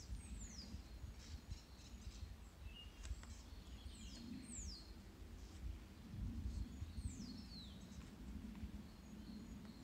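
A small songbird calling with high, thin, falling notes in pairs, three times, against faint scraping of a straight knife shaving sycamore wood.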